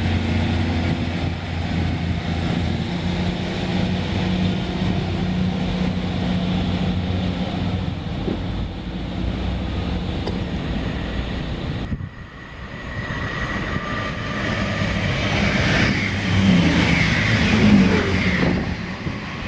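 Diesel multiple unit engine running steadily with a low hum. About twelve seconds in the sound breaks off suddenly, and a train's rumble builds up again and grows louder, with high ringing tones from the wheels and rails.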